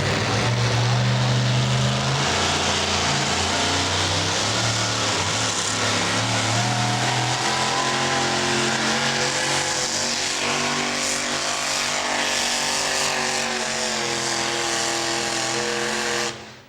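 Super modified four-wheel-drive pulling truck's engine running hard at full throttle under load while pulling the sled. Its pitch shifts partway through, and the sound cuts off suddenly near the end.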